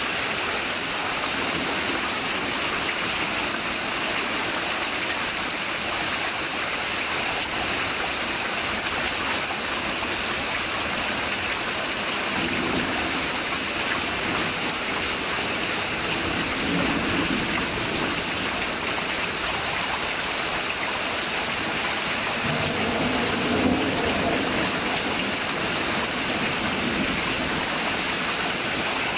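Heavy thunderstorm rain pouring down in a steady, even hiss. Low rumbles of thunder come in about halfway through and again in the last third.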